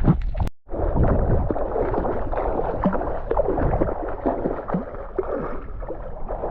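Seawater sloshing and gurgling close to the microphone, with many small quick bubbly pops, as from swimming in the shallows of a bay. A brief dropout comes about half a second in.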